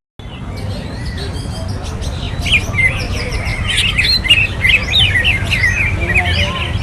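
Many caged songbirds chirping and singing over one another, the calls growing denser about two and a half seconds in, over a steady low background rumble.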